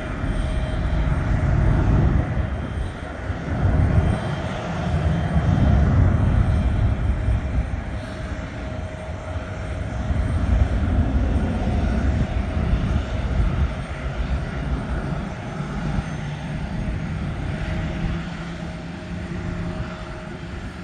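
Three-engine McDonnell Douglas MD-11F freighter's jet engines at takeoff power: a deep rumble with a steady whine over it, easing a little near the end.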